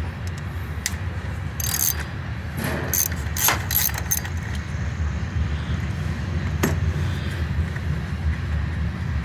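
Light metallic clinks and rattles of hand tools and small hardware being worked on a riding mower, several close together between about one and a half and four seconds in and one more near seven seconds, over a steady low rumble.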